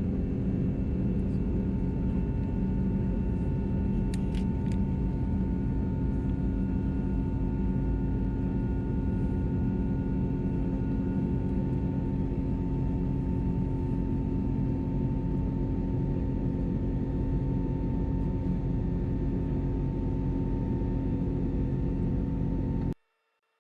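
Airbus A321neo's Pratt & Whitney geared turbofan engines heard from inside the cabin at a window seat: a steady rumble with a few steady whining tones on top. It cuts off abruptly near the end.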